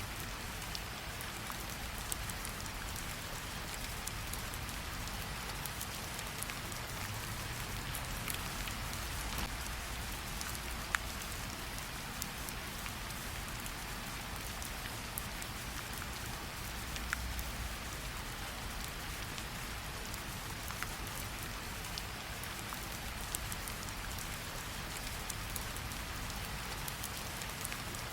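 Steady rain falling on foliage and ground, with individual drops ticking sharply here and there over a constant hiss and a low rumble.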